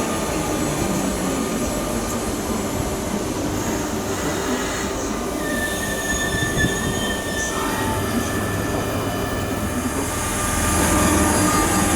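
A train running through a railway station. A high squeal holds for about two seconds midway and drops in pitch as it fades, and the train grows louder near the end.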